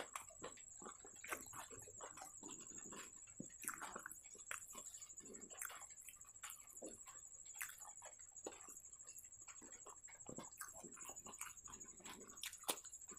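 Close-miked eating sounds: chewing, with irregular wet mouth clicks and lip smacks, as fried bread and curry are eaten by hand. A faint steady high-pitched whine runs underneath.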